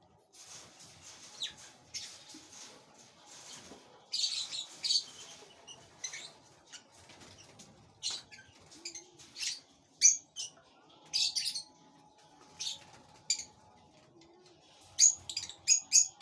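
Rosy-faced lovebird chick giving short, high-pitched begging chirps in irregular bursts while it is being fed, loudest in a few clusters.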